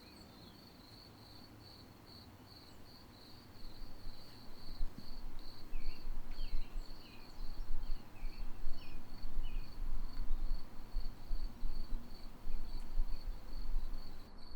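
Cricket chirping in a steady, rapid high-pitched pulse. From about four seconds in, a fluctuating low rumble rises under it and becomes the loudest sound.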